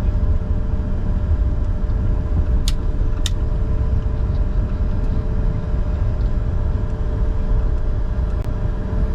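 Cockpit noise of a Bombardier Challenger 605 on the ground with its rear-mounted GE CF34 turbofans running at idle: a steady low rumble with a steady hum. Two sharp clicks come close together about three seconds in.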